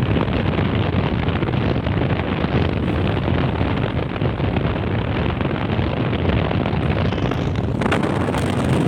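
Steady wind buffeting the microphone of a moving vehicle, mixed with road and engine noise while travelling.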